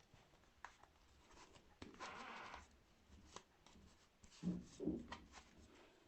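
Faint handling noises from a doll and its small accessories being moved about: scattered light clicks, a short rustle about two seconds in, and two soft thumps close together past the middle.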